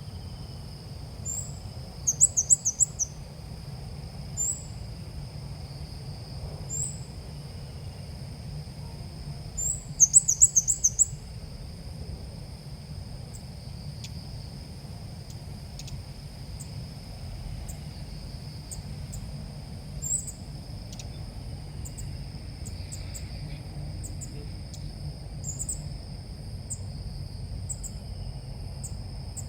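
Bird call track of the 'ốc mít' bird used as a lure: short high chirps, with two loud rapid trills about two and ten seconds in. A steady high insect-like drone and a low rumble sit under it.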